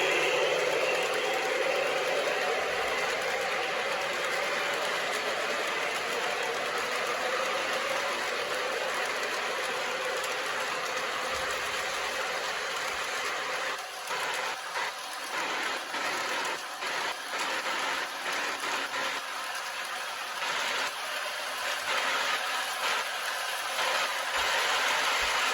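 MTH Propane Turbine model locomotive running with a long train of cars: a steady mechanical whir and track noise. From about halfway through, the sound keeps cutting in and out in short drops.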